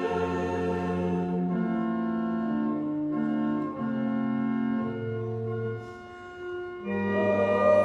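Church organ playing slow held chords that change every second or so, dropping softer about six seconds in before a louder, fuller chord swells in near the end.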